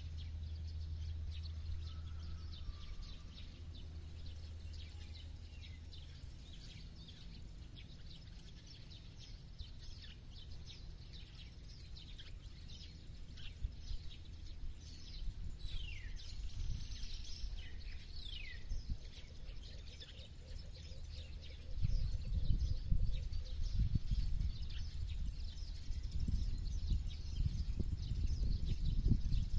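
Several wild birds chirping and calling, with a few quick falling whistles near the middle. A low steady hum fades out about six seconds in, and irregular low rumbling thumps set in near the end and become the loudest sound.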